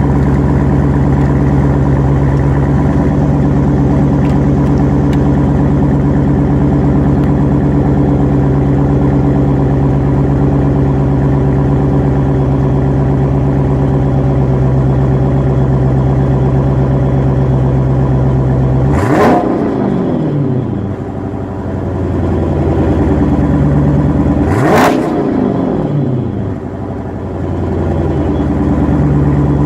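Straight-piped Chrysler 300 SRT-8 HEMI V8 exhaust idling steadily, then revved twice with quick throttle blips, about 19 and 25 seconds in. Each rev falls quickly back to idle.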